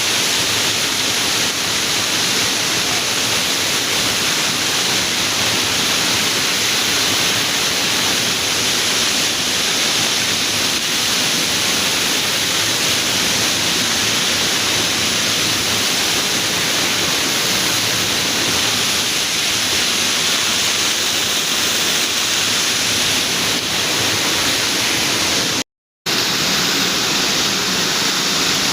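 Waterfall: steady, loud rushing of falling water, even and unbroken, cutting out for a fraction of a second near the end before resuming.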